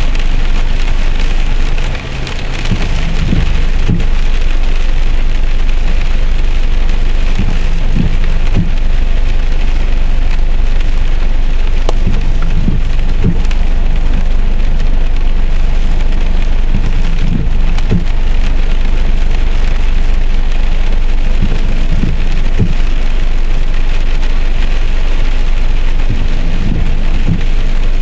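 Rain pattering on a vehicle's windshield and roof, heard from inside the car. Underneath is a steady low rumble, with irregular dull thuds every few seconds.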